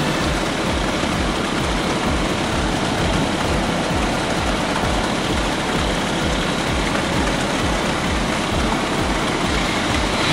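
Heavy diesel engine of construction machinery running steadily, with an even low throb.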